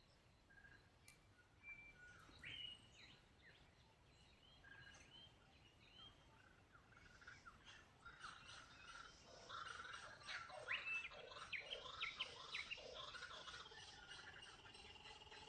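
Birds calling and singing in morning farm ambience: a few scattered chirps and short whistles at first, building about halfway through into a busier chorus of rapid chirps and trills, with gliding calls near the end.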